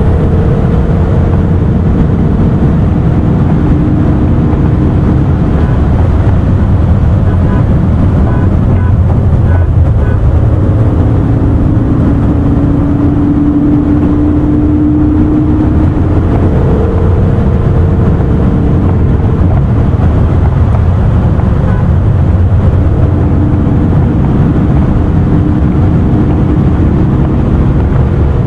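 Car driving at speed: a steady loud rush of engine and road noise, with a low hum that drifts slowly up and down in pitch.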